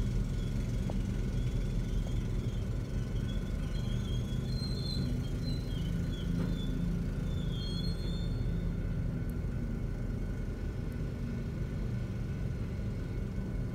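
CSX freight train of empty center-beam flatcars rolling steadily past at a level crossing, a continuous low rumble heard from inside a car. Wheels squeal in high wavering tones between about four and eight seconds in.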